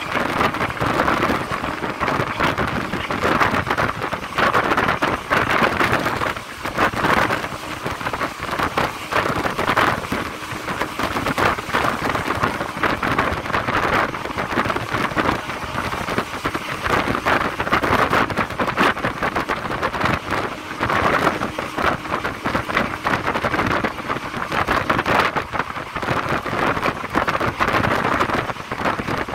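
Running noise of a moving train: dense rattling and clatter under a steady rush of air.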